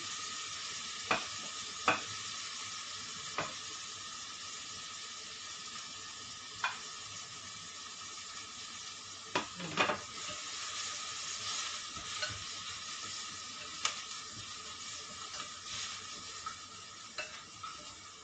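Shredded chicken, garlic, onion and carrots sizzling in hot oil in a pan while being stirred, with a cooking utensil knocking and scraping against the pan every few seconds.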